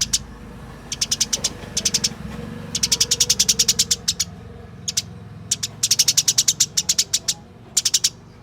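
Eurasian tree sparrow (burung gereja) in fighting mood calling in fast rolls of sharp, high chirps: runs of about five to twelve notes at roughly ten a second, broken by short pauses.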